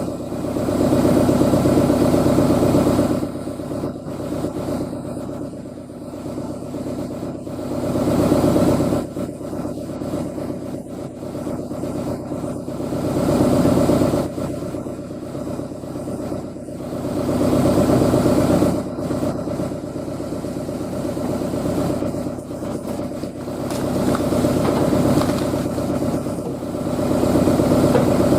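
Excavator's diesel engine running at work, growing louder in swells every four to five seconds as the load comes and goes.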